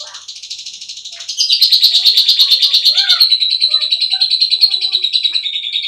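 Lovebird singing a long, fast chattering trill of rapid high chirps, which grows much louder about a second and a half in.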